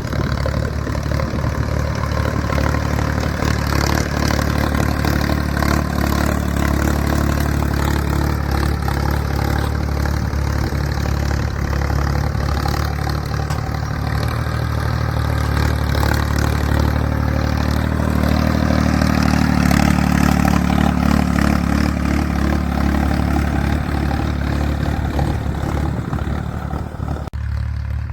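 Ford 3600 tractor's three-cylinder diesel engine running steadily under load while pulling a 16-disc harrow. The engine note swells louder about two-thirds of the way through.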